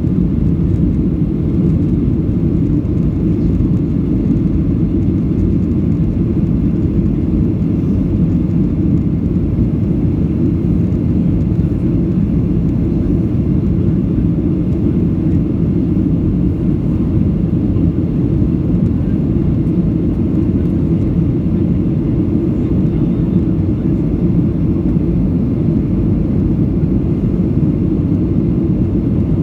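Flydubai Boeing 737 jet airliner running in flight: a steady, unchanging low rumble with no rise or fall.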